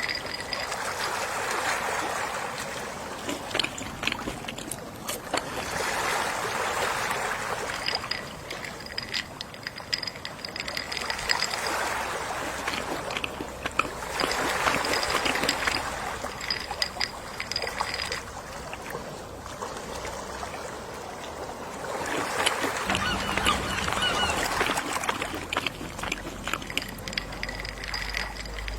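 Gentle sea waves washing onto the shore, each wave swelling and falling away every few seconds.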